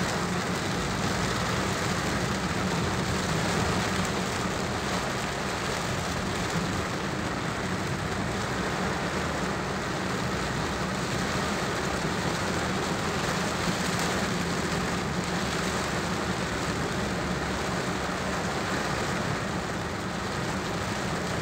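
Heavy rain falling on a car's windshield and roof, heard from inside the cabin as a steady hiss, with a low steady hum of the moving car underneath.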